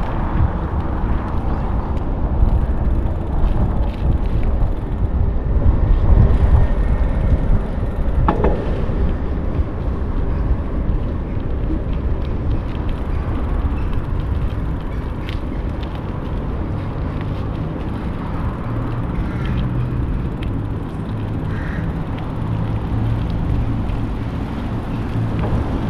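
Riding a bicycle: a steady low rumble of wind and tyre noise, with a few sharp clicks and a low hum setting in past the middle.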